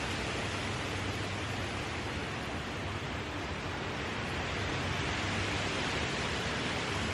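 Steady, even background hiss with a faint low hum underneath, unchanging throughout.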